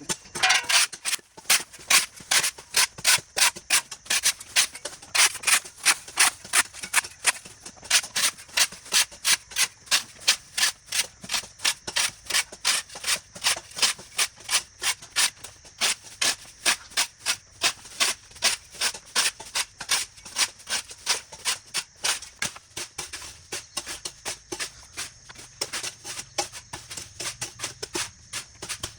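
Rhythmic scraping of a hand tool over ground and grass, fast even strokes about three a second, as a roadside verge is cleared.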